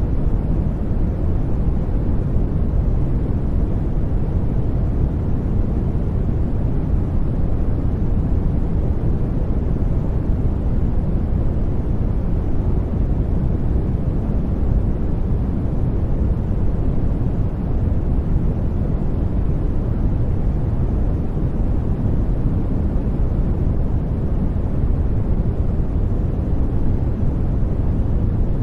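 Steady, unchanging study-noise track: an even rushing hiss weighted heavily to the low end, so it sounds deep and rumbling rather than bright.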